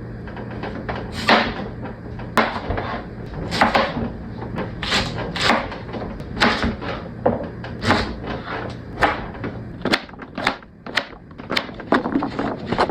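Knife chopping sweet potatoes on a cutting board: sharp strokes about once a second, coming faster, about two a second, in the last few seconds.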